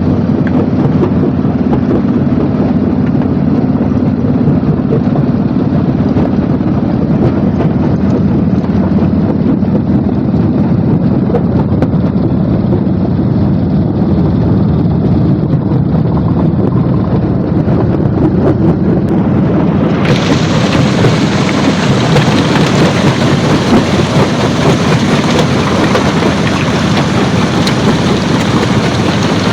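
Stone crushing plant running: a loud, steady rumble and clatter of crushing machinery with a steady hum. About twenty seconds in it abruptly turns harsher and hissier.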